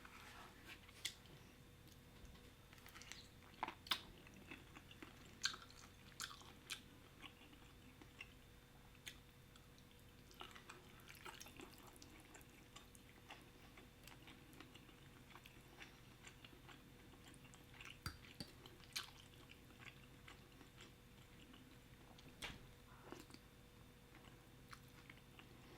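Faint chewing and biting of shrimp Alfredo pasta, with scattered small wet smacks and clicks spread irregularly through the stretch.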